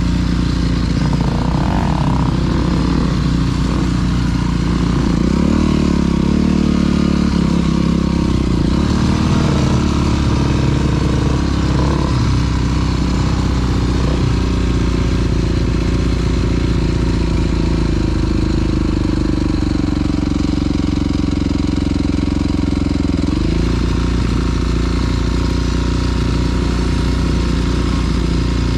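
Dirt bike engine running while the bike is ridden on a trail, its pitch rising and falling with the throttle, with a quick rise about 23 seconds in.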